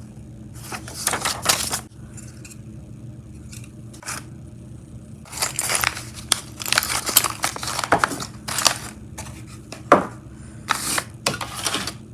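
Paper and plastic kit packaging being handled, crinkling and rustling in several irregular bursts, the longest running for a few seconds midway.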